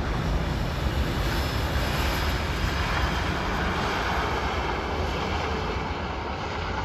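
Jet noise from a Boeing 747-400 freighter's four turbofan engines on its landing: a steady, loud rushing sound that swells slightly midway and then slowly eases off.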